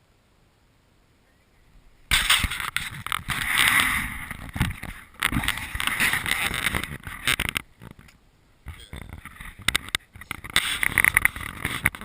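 Loud, irregular rustling and buffeting noise on the camera's microphone, starting suddenly about two seconds in and coming in gusts with brief drops near the middle and end.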